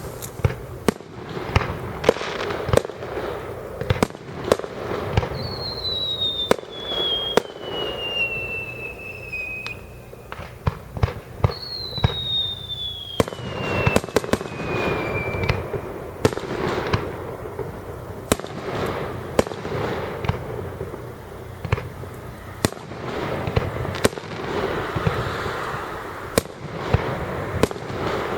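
Fireworks display: a rapid, irregular string of sharp bangs and bursts. Two long whistles fall in pitch, one starting about five seconds in and one about twelve seconds in.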